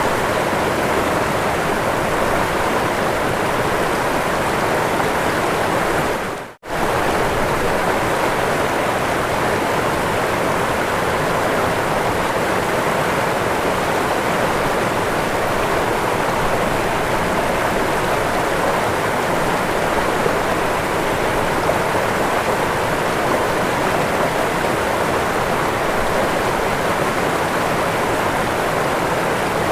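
Waterfall: a steady, even rush of falling water. About six and a half seconds in it fades out almost to silence for a moment and comes straight back, like an edit in the recording.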